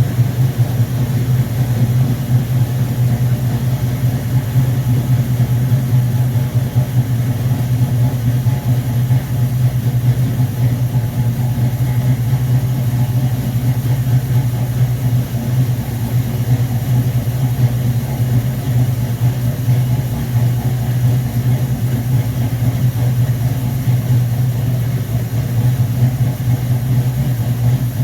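Car engine running on a freshly rebuilt Rochester Quadrajet four-barrel carburettor, idling steadily at an even speed with no revving.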